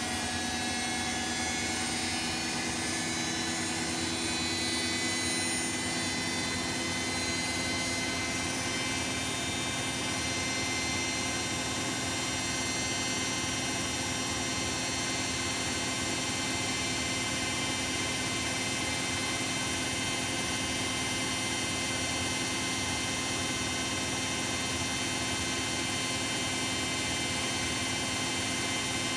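Bosch WAE24162GB washing machine spinning at high speed: a steady motor whine of several tones over the rush of the drum, with the pitch settling about ten seconds in and then holding steady.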